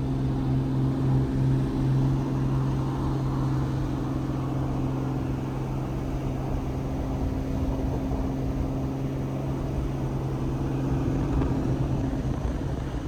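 A steady, low engine hum with an unchanging pitch, over background noise; it fades out about twelve seconds in.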